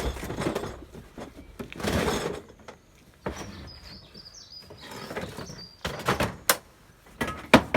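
Scuffing and rustling, faint bird chirps, then a run of sharp knocks and a loud bang near the end, like a door being shut.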